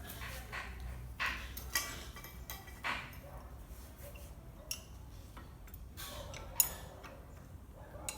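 Irregular light clicks and taps of tools and metal bicycle parts being handled, with a sharper click about six and a half seconds in.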